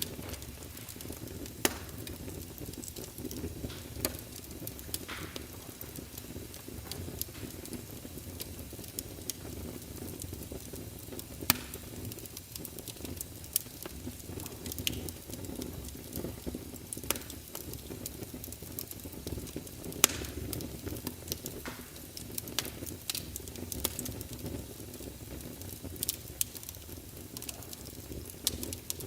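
Fire crackling: irregular sharp pops and snaps of varying loudness over a steady low rumble.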